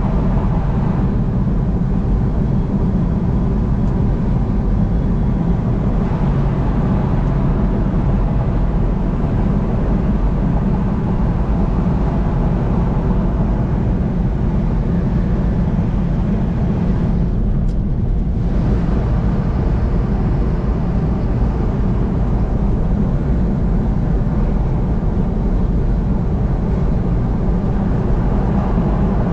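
Car travelling at highway speed: steady road and engine noise, heavy in the low end, briefly duller for about a second a little past halfway.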